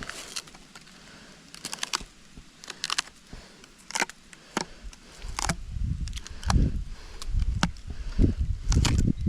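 Footsteps walking over rough ground, with scattered sharp clicks and snaps; from about halfway through, the steps turn into heavy low thuds about one or two a second.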